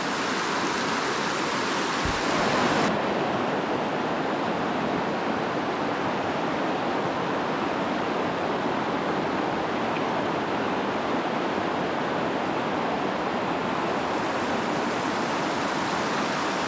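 Small creek water rushing and falling steadily over a basalt ledge, an even hiss with no let-up. A brief low thump comes about two seconds in.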